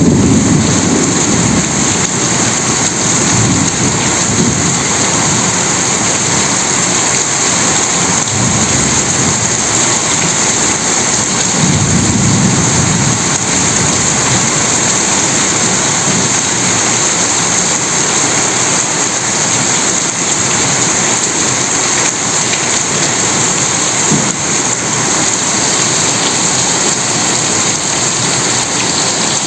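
Steady heavy rain, with low rolls of thunder rumbling under it, strongest at the start and again about twelve seconds in.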